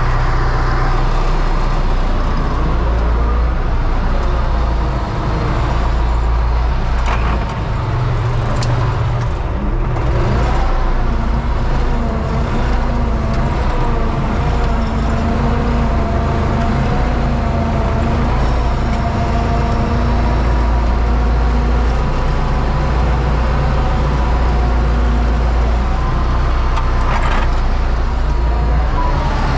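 Universal U650 tractor's four-cylinder diesel engine running steadily, its pitch wavering slightly up and down a few times.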